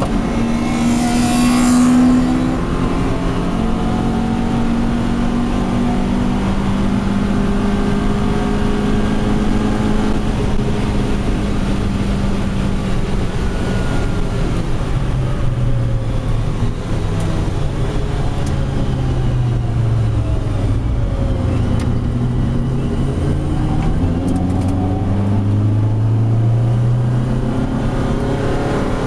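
Lotus Elise engine heard from inside the cabin, running hard around a race circuit. The pitch holds steady at first, drops lower about halfway through and climbs again near the end, with a brief hiss about a second in.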